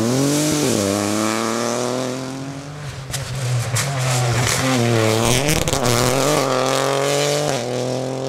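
Lancia Ypsilon Rally4 HF rally car engine accelerating hard through the gears. The pitch climbs and then drops back sharply at each upshift, several times, and is still climbing near the end.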